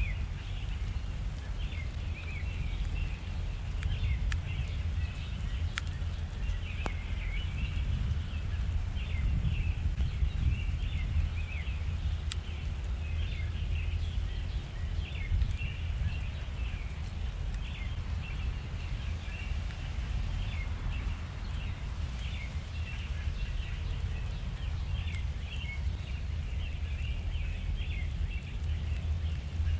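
Many small birds chirping and twittering continuously over a steady low rumble.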